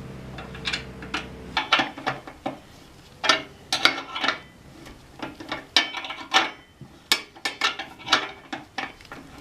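Metal tools and parts clinking and clanking in irregular knocks, some with a brief metallic ring. A steady low hum cuts off about a second and a half in.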